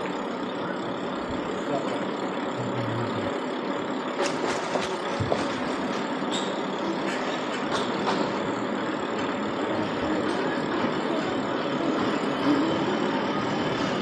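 City street traffic ambience: vehicle engines running and passing, a steady wash of road noise with a few brief clicks.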